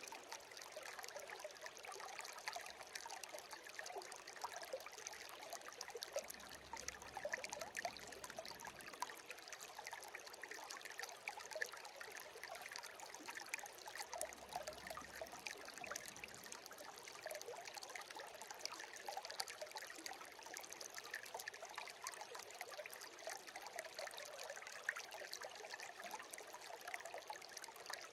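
Brook babbling: a steady, even murmur of many small trickles and gurgles, light, with no deep rumble.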